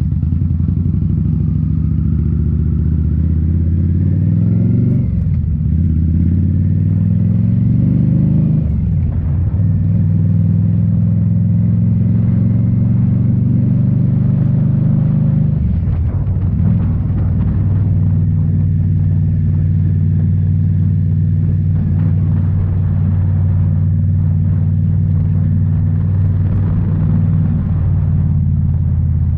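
2018 Indian Scout Bobber's V-twin engine through Rinehart slip-on mufflers, rising in pitch twice under acceleration with a quick drop at each gear change, then running at a steady cruise, with another brief drop in revs about halfway through.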